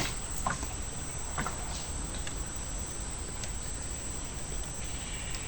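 Steady high-pitched chorus of insects over a soft background hiss, with a few faint short clicks in the first second and a half.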